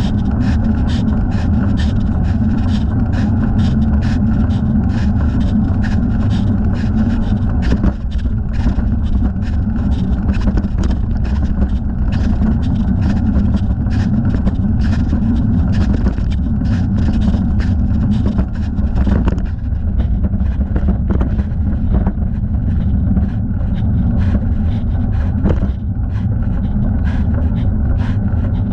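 Riding noise from a thigh-mounted camera on a moving bicycle: a loud, steady low rumble with regular ticking about two to three times a second, the ticks fading somewhat about two-thirds through.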